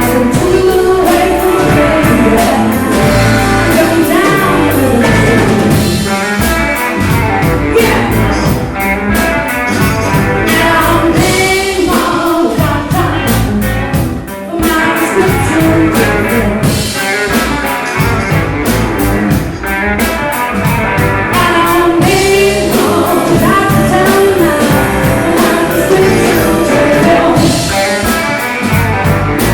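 Blues-rock song with singing and guitar over a steady drum beat.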